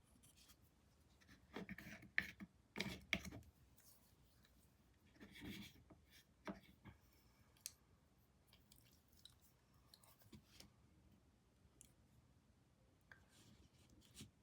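Faint scraping and rubbing of a paintbrush on canvas in short bursts, with a few small clicks.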